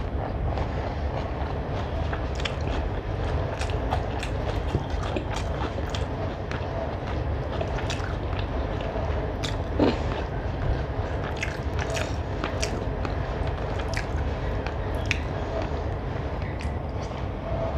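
Close-miked chewing of a mouthful of rice and chicken curry, with many small wet mouth clicks and one louder brief sound about ten seconds in, over a steady low background rumble.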